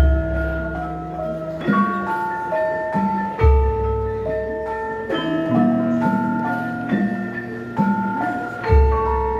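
Javanese gamelan ensemble playing: bronze metallophones ring out a melody of struck, sustained notes. Deep low strokes come at the start, about three and a half seconds in and near the end.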